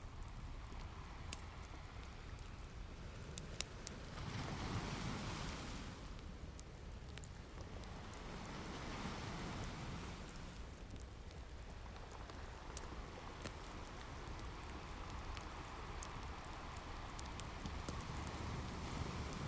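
Ocean waves washing in and drawing back in slow surges of noise, with a wood fire crackling: sharp pops scattered throughout.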